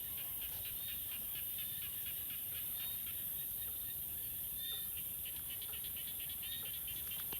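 Outdoor rural ambience: many short, quick chirps and clicks from small animals over a steady high hiss and a low rumble.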